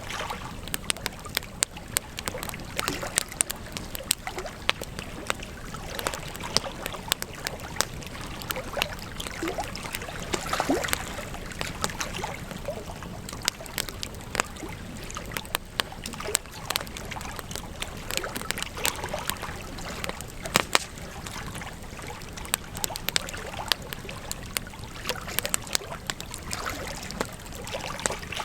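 Wood campfire crackling, with frequent irregular sharp pops and snaps over a steady hiss.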